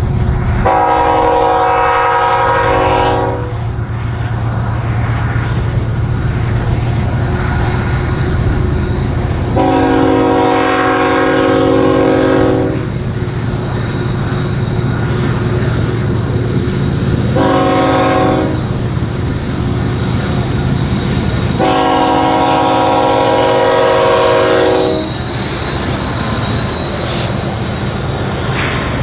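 Locomotive horn sounding the grade-crossing signal, long, long, short, long, over the steady rumble of a train on the tracks.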